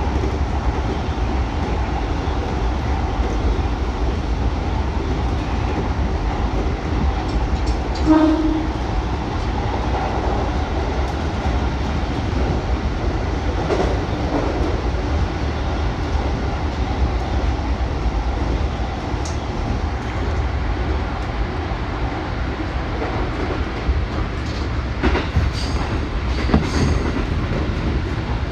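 Musashino Line electric train running on the rails, heard from inside: a steady low rumble of the running gear, with a brief tone about eight seconds in and a few sharp wheel clicks over rail joints near the end.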